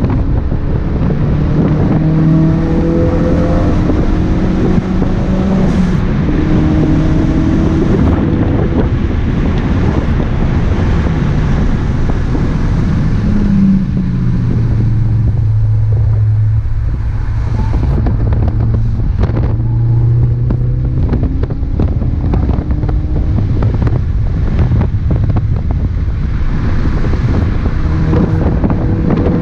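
2017 Ford Focus RS's turbocharged 2.3-litre four-cylinder engine driven hard on track. The note climbs in pitch through the gears, settles to a lower, steadier tone around halfway, then climbs again near the end, over constant road and tyre noise.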